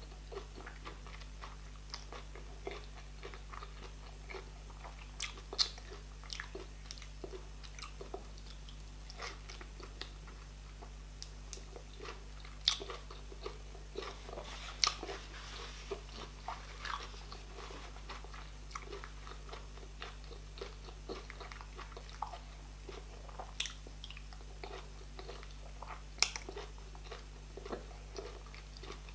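Mouth sounds of eating by hand: chewing and biting into boiled meat in okra soup, with irregular sharp wet clicks and smacks, a few of them louder.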